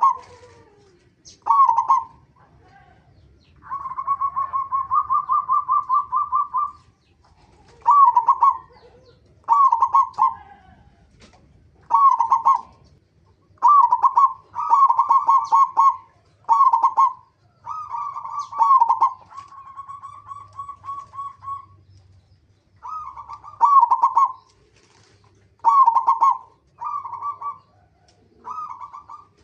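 Zebra dove (local perkutut) cooing: short rhythmic cooing phrases every one to two seconds, with a longer, rapidly pulsed coo about four seconds in and a softer one around twenty seconds.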